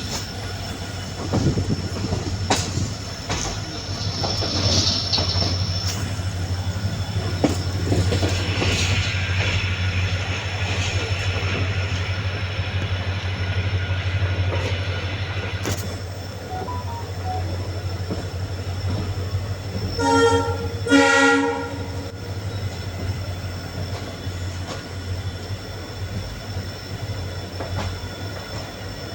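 Express train running at speed, a steady rumble and rattle of wheels on the track. About twenty seconds in, the WDP4D diesel locomotive's horn sounds two short blasts in quick succession.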